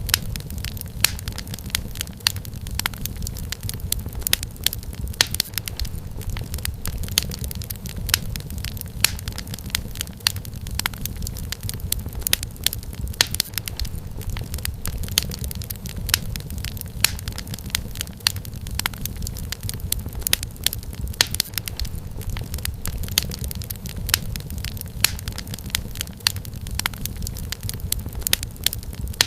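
Wood fire crackling: frequent irregular sharp pops and snaps over a steady low rumble of flames.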